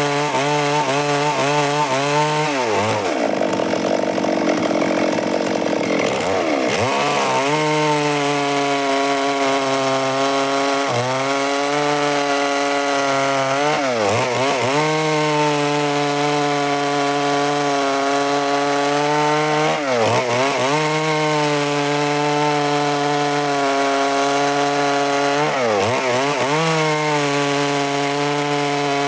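Stihl MS382 two-stroke chainsaw cutting wood under power. Its engine note drops and picks back up several times: once for a few seconds early on, then briefly about every five or six seconds.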